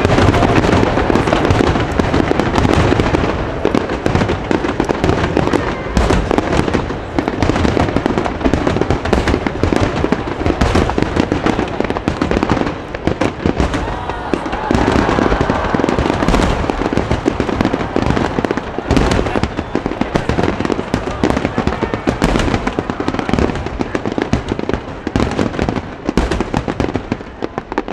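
Aerial firework shells bursting in a dense, continuous barrage: overlapping booms and sharp cracks with a rolling rumble beneath, as in a fireworks finale.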